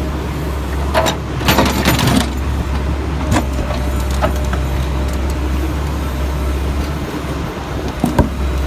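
Backhoe engine running steadily while broken concrete chunks clatter and crash into a dump truck bed: a burst of impacts about a second in, then a few single knocks later.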